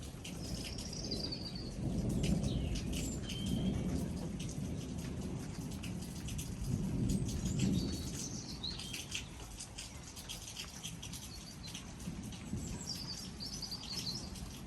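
Thunder rumbling low in two swells, about two seconds in and again around seven seconds, over steady rain pattering. Birds sing short high chirping phrases throughout.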